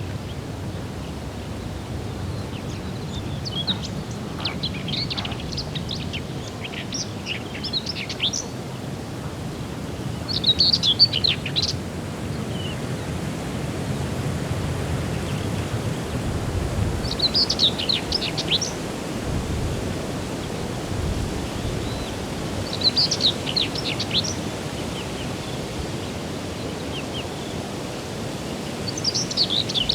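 A songbird sings short, quick phrases about every six seconds over a steady background rush of noise.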